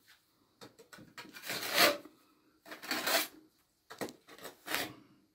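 A series of about five short scraping strokes, each under a second, with brief pauses between them.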